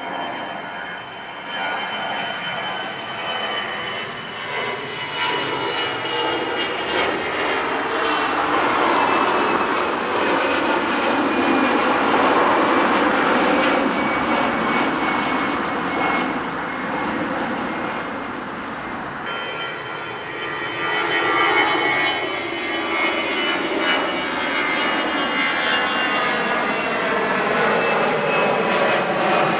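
Airbus A320 jet engines running as the airliner passes, a loud rushing noise with a high whine that slowly falls in pitch. About two-thirds of the way through it cuts to a second A320, whose engines build up in the same way.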